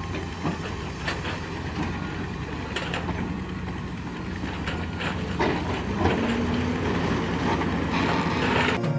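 Heavy diesel machine's engine running steadily, with scattered metal clanks and knocks from the machine working.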